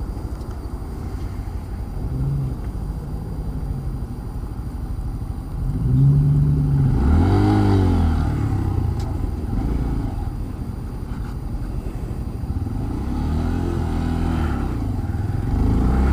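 Motor vehicle engine and road noise heard on board while riding. The engine note rises and falls about halfway through and climbs again near the end.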